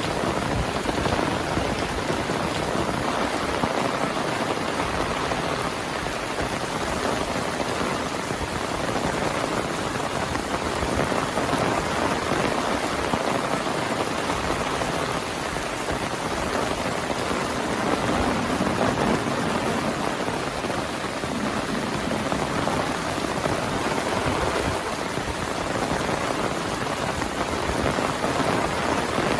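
Heavy monsoon rain falling and pattering on surfaces, a steady, even hiss.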